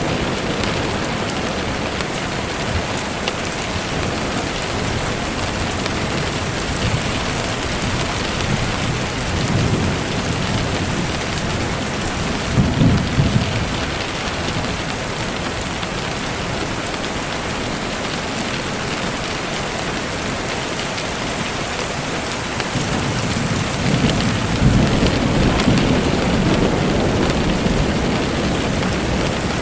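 Steady rain, with low rumbles of thunder building about ten and thirteen seconds in, and a longer rumble from about twenty-three to twenty-eight seconds in.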